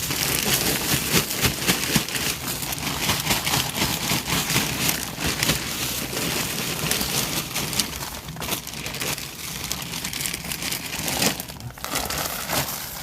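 Continuous rustling and crackling of dry garden material (mulch and leaves) being handled and shifted in a plastic storage tote, a little sparser in the second half.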